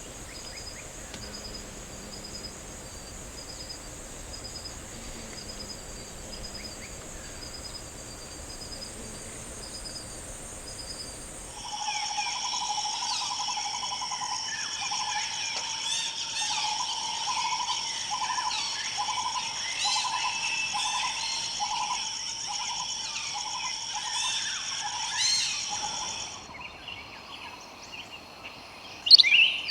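Tropical forest ambience: a steady high insect drone with a softly repeating chirp, which changes suddenly about twelve seconds in to a louder, denser chorus of insects and birds. In that chorus a low call repeats about one and a half times a second under many short chirps. The chorus drops away a few seconds before the end, and a single loud bird call follows near the end.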